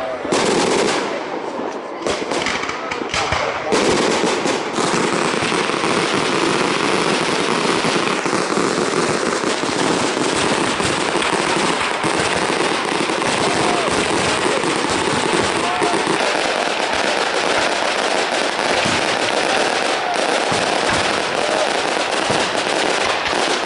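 Firecrackers and fireworks going off in a dense, continuous crackle of rapid pops, with voices in the mix.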